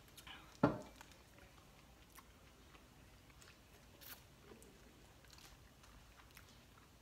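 Close mouth sounds of people eating cheeseburgers and chicken nuggets: quiet chewing and biting with small wet clicks. A single sharp knock about half a second in.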